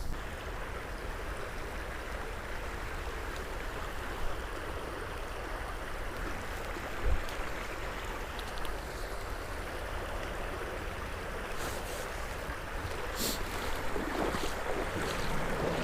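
Stream water rushing steadily over a small rapids, with a low wind rumble on the microphone. A few faint clicks and knocks come in the second half.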